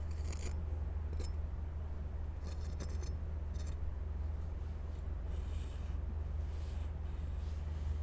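A series of short, crisp scraping or rustling sounds, about six spread over several seconds, over a steady low rumble.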